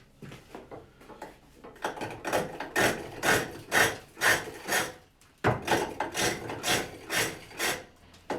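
Hook tool cutting wood on a treadle-driven pole lathe: rhythmic rasping cuts about two a second, starting about two seconds in, with a short break near the middle before the strokes resume.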